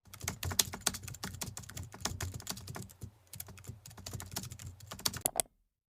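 Typing on a computer keyboard: quick, irregular key clicks with a short lull about three seconds in, stopping suddenly near the end.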